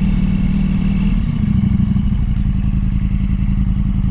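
Motorcycle engine running steadily while riding slowly, heard from on the bike. The engine eases off slightly about a second and a half in.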